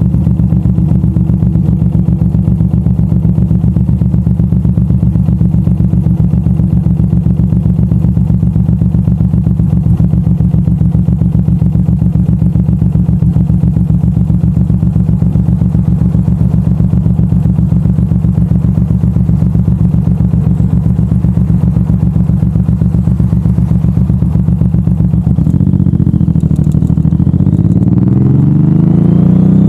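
Suzuki M109R's big V-twin engine running steadily at low revs with an even, low pulse. About 25 seconds in it revs up and accelerates, the pitch rising in sweeps and growing louder.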